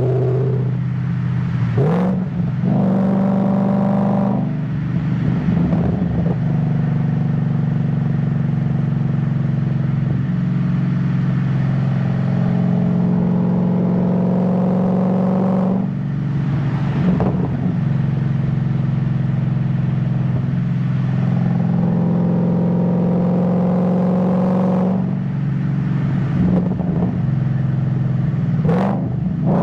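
Ford Mustang GT S197 V8 running under way at a steady cruise, its engine note sweeping in pitch several times as the manual gearbox changes gear, about 2, 5, 17 and 27 seconds in.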